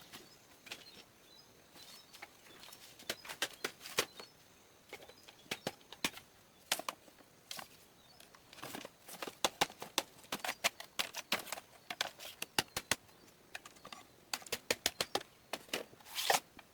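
A run of irregular sharp clicks and knocks, sparse at first and coming thick and fast in clusters over the second half.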